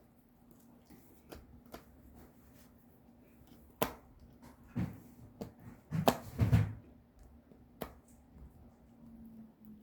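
Puppy gnawing and crunching on a bone chew: scattered small clicks with a few louder crunching bites, the heaviest about four and six seconds in.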